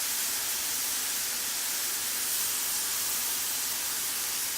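Chicken and vegetables frying in oil in a pan over medium-high heat: a steady, even sizzle.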